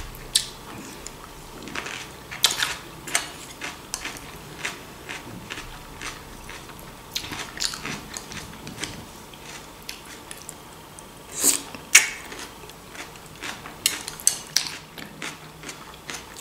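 Close-up chewing and crunching of a raw vegetable salad of cucumber, bell pepper and lettuce, with small scrapes and clicks of a metal spoon in the bowl. The two loudest crunches come about eleven to twelve seconds in.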